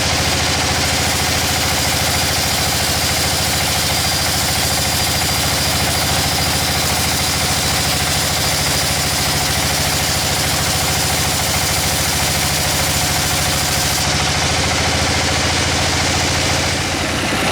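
Sawmill machinery running steadily: a continuous engine drone with a dense hiss over it, which changes near the end.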